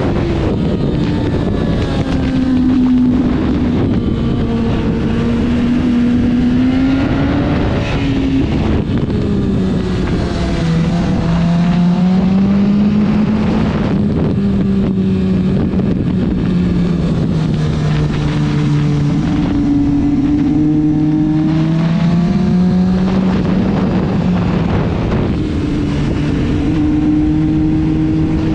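Motorcycle engine at speed on a race track, its note climbing and dropping over and over with throttle and gear changes, with wind rushing over the microphone.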